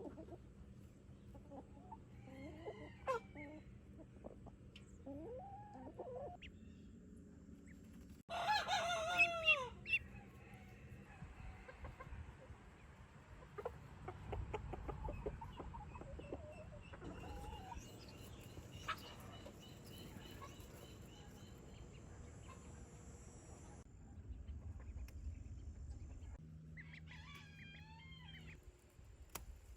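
Chickens clucking on and off, with a rooster crowing once, loudly, about eight seconds in.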